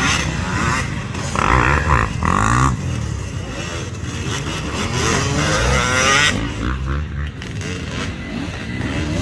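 Two-stroke 250cc enduro dirt bike engine (Loncin MT250) running hard and revving up and down, its pitch climbing steeply several times as the throttle is opened.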